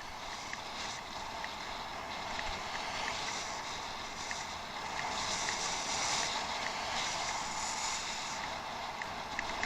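Steady rushing noise of an off-road bicycle ride, heard from a head-mounted camera: tyres rolling over a dirt track and wind on the microphone, with a few faint light ticks. It grows slightly louder about halfway through.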